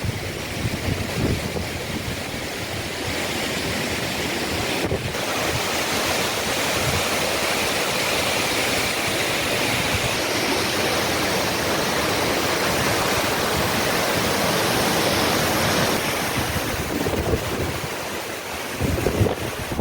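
Strong wind blowing over the microphone: a steady rush of noise that swells a little in the middle and eases near the end.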